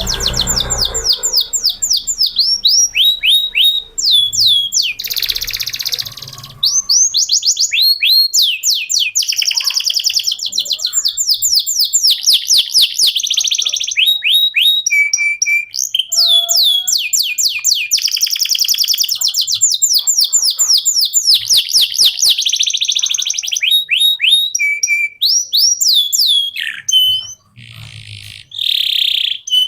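Male canary singing a long, continuous song: rapid trills and rows of quick falling notes repeated several times a second. The song breaks briefly near the end.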